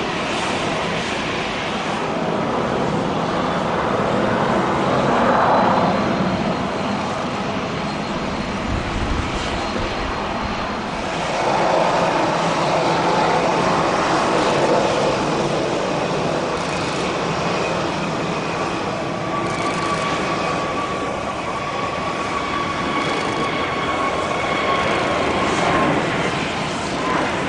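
Airbus A320-family airliner's twin jet engines running, a steady loud roar that swells twice, with high whining tones slowly falling in pitch over it.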